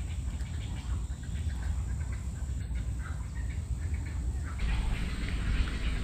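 Birds calling over a steady low rumble; about four and a half seconds in, a dense hiss in the upper range joins in.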